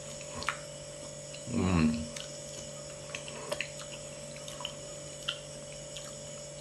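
Soft wet mouth clicks and smacks of a man chewing durian flesh, with one short hummed 'mmm' about one and a half seconds in. A steady low electrical hum runs underneath.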